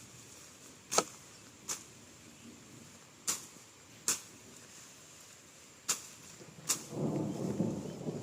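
Grass being cut by hand with a blade: six sharp swishing strokes, a second or so apart and unevenly spaced. From about seven seconds in, a louder rustling joins them, cut grass or vegetation being handled.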